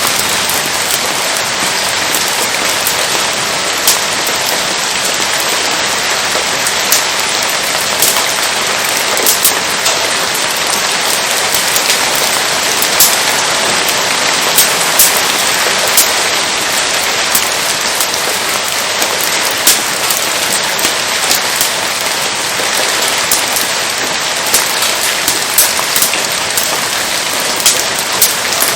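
Steady rain falling, a dense even hiss, with many sharp irregular pops and ticks scattered through it.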